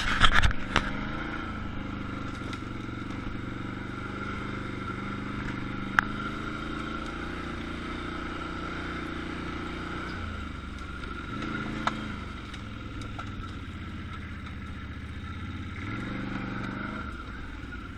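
Quad bike (ATV) engine running, its pitch dipping and rising with the throttle about ten seconds in and again near the end. There is a sharp knock about six seconds in and another near twelve seconds.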